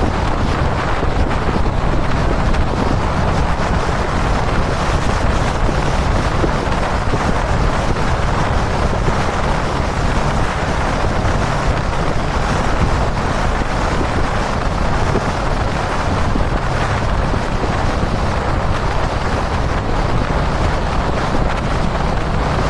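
Heavy wind rushing over the microphone at highway speed, over the steady drone of a Kawasaki Dominar 400's single-cylinder engine holding a constant cruise.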